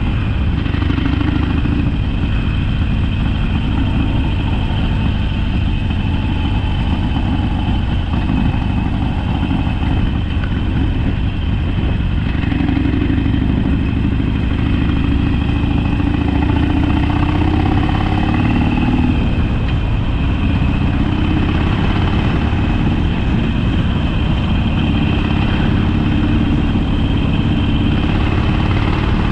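Harley-Davidson Sportster's air-cooled V-twin engine running while riding, its note rising and falling a few times with the throttle.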